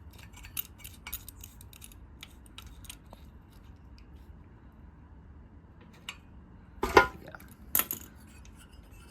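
Steel hand tools clinking against a motorcycle engine as a 13/16 spark plug socket is tried on the plug and does not fit: a run of small metallic clicks, then two loud metal clanks near the end.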